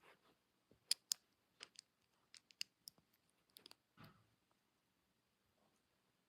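LEGO pieces being handled and snapped together: a series of small, sharp plastic clicks over the first four seconds, with a duller knock about four seconds in.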